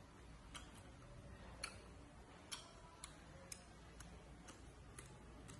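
Faint crisp clicks of chewing crunchy papaya salad, a few spaced out at first and then about two a second.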